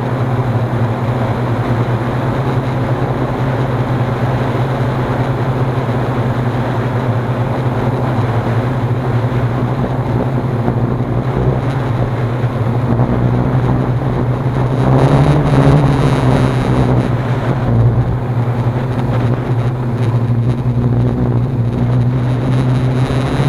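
Hexacopter's electric motors and propellers humming steadily, with wind rumbling on the microphone. The hum grows louder and brighter briefly about fifteen seconds in.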